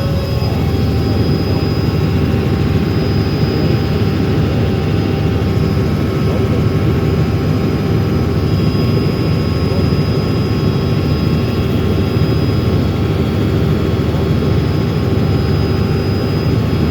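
Helicopter in flight: a loud, steady drone of turbine engine and rotors with a constant whine.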